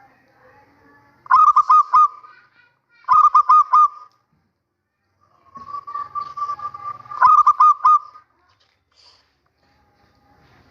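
Male zebra dove (perkutut) cooing: three phrases of quick rolling notes, the first about a second in, the second about three seconds in, and a longer one that swells from about five and a half seconds and ends near eight seconds.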